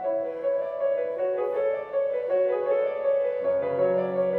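Instrumental piano music between sung lines, a melody of held notes with low bass notes coming in about three and a half seconds in.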